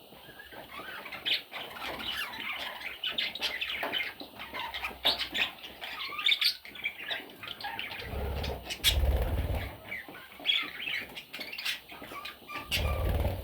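Pet budgerigars chirping and chattering in a rapid, busy warble, with short bursts of wing flapping about two-thirds of the way through and again near the end.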